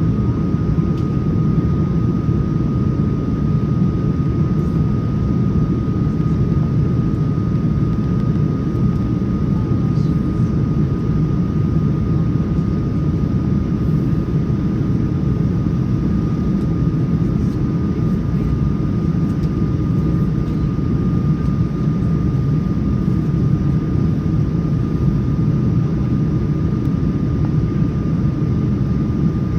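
Steady cabin noise of a Boeing 787-9 airliner in flight: a constant low rush of airflow and engine noise, with a thin steady whine above it.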